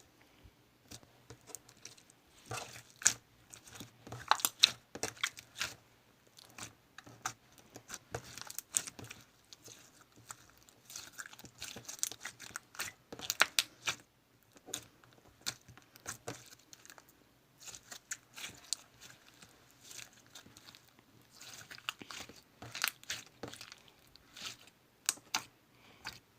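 Clay slime being squeezed and kneaded by hand, giving irregular bursts of crackling, popping clicks with short pauses between handfuls.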